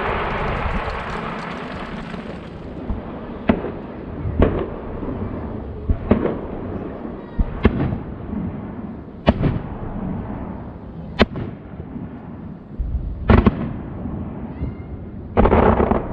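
Aerial firework shells bursting. A dense crackling fades out over the first couple of seconds, then about eight sharp bangs follow every second or two, each with an echoing tail.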